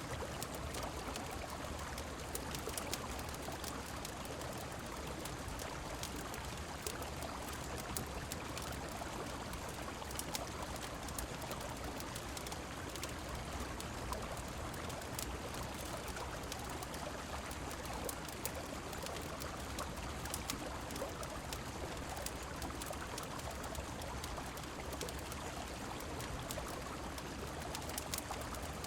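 Steady flowing river water and rain, an even unbroken rush, with sparse small sharp ticks scattered throughout.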